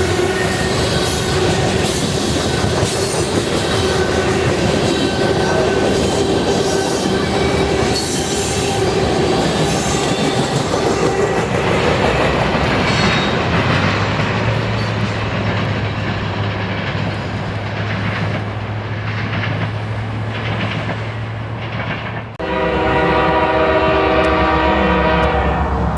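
Railcars of a freight train rolling past with a steady clickety-clack of wheels over the rail joints and a thin squeal from the wheels. About two-thirds of the way through, a low steady hum comes in. Near the end, a locomotive air horn blows one long steady chord.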